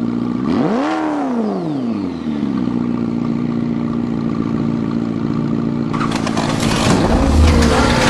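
Car engine idling, blipped once in a quick rev that rises and falls about a second in. About six seconds in, a loud rushing noise comes in over the engine.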